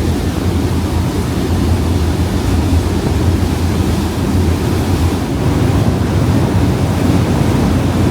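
Steady rush of wind buffeting the microphone over rushing water, with a constant low drone underneath.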